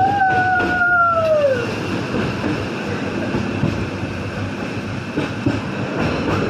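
Passenger train running, a steady rumble and rattle heard from inside the coach. In the first two seconds a single whistle-like tone jumps up in pitch and then slides slowly down.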